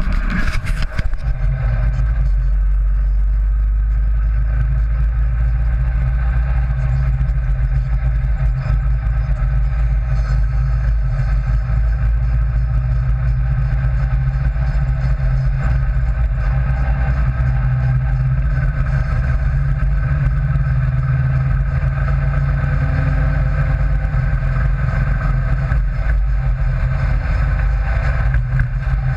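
Rail buggy's engine running steadily while driving at highway speed, a continuous loud drone with no breaks.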